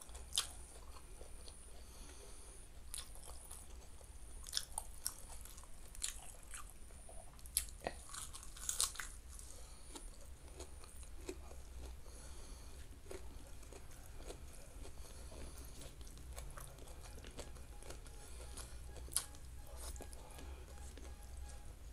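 Close-up chewing of a mouthful of rice with raw vegetables, eaten by hand, with sharp crisp crunches from biting the raw vegetables scattered through, most of them in the first half and one more near the end. A steady low hum lies underneath.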